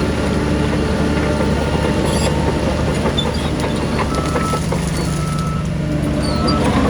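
Heavy diesel earthmoving machinery running steadily. From about four seconds in, a reversing alarm beeps at a regular pace, about once a second.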